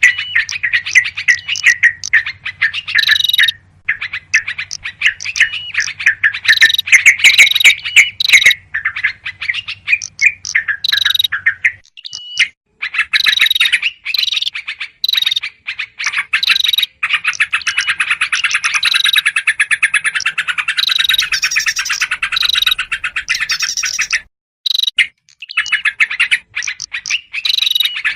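Yellow-vented bulbuls' noisy, agitated chattering, as used for a bird-trapping lure call. The chirps come dense and rapid, with a few short breaks.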